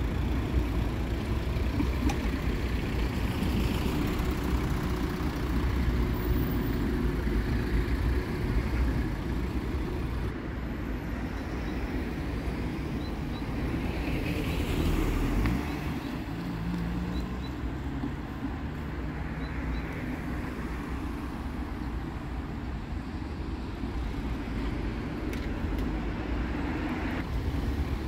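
Road traffic: cars driving past with a steady low rumble, one vehicle passing close about halfway through.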